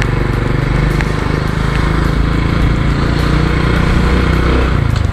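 Honda Wave 125i's single-cylinder four-stroke engine running steadily while the motorcycle is ridden, with wind rushing over the microphone; the engine note eases off near the end.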